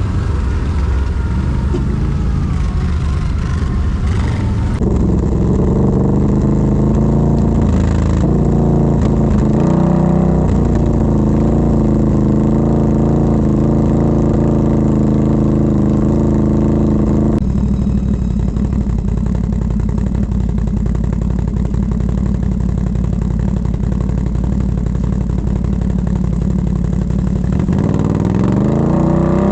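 Quad bike (ATV) engine running under changing throttle. Its note steps up about five seconds in, settles lower near the middle, then revs up again near the end.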